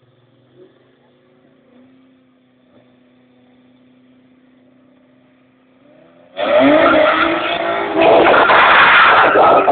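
Two street cars, a Toyota Supra and a Ford Mustang, launching side by side in a drag race. A faint steady engine hum is followed about six seconds in by a sudden loud burst as both engines rev hard at full throttle. The pitch rises as they accelerate, and the sound is loudest near the end as the cars pass close by.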